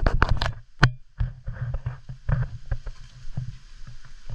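Irregular knocks, scuffs and rustles of someone walking a rough trail while carrying the camera, with a sharp click just under a second in, over a faint steady hiss.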